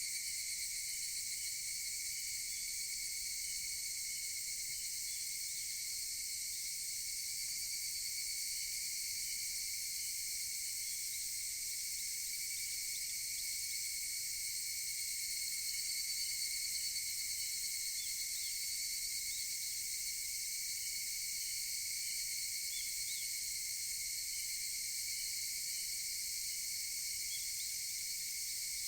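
Chorus of higurashi (evening cicadas) keeping up a steady, high-pitched shrill, with faint short chirps scattered through it.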